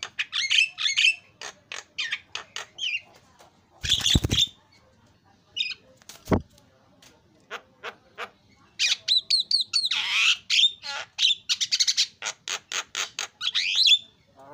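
Javan myna calling: quick runs of harsh squawks, clicks and gliding whistled notes, with the densest chattering burst in the second half. Two sharp thumps come about four and six seconds in.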